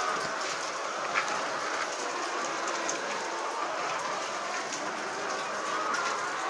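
Steady din of a large flock of chickens in a poultry shed, with many overlapping calls.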